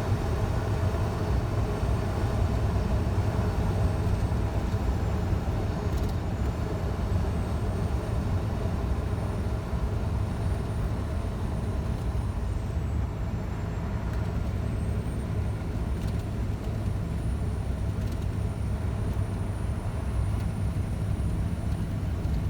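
Scania truck on the road, engine and road noise running steadily at an even level, with a faint thin high whine over it that dips in pitch twice.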